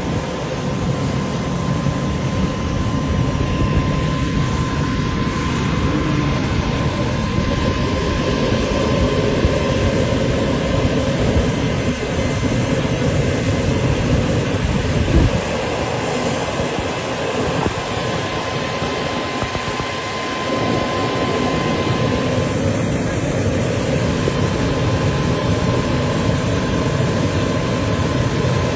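Private jet's engines running steadily: a continuous rushing noise with a thin steady tone through it.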